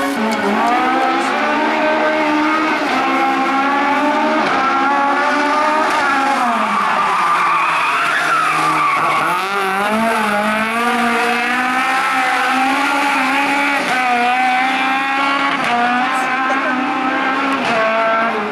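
Rally car engine revving hard, its pitch repeatedly climbing and falling through gear changes. About seven seconds in, the revs fall away low, then climb back up.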